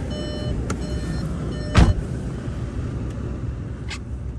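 APR-tuned Volkswagen Passat R-Line's turbocharged engine running with a steady low rumble during an attempt to drive up a snow-covered driveway. A single sharp knock a little under two seconds in.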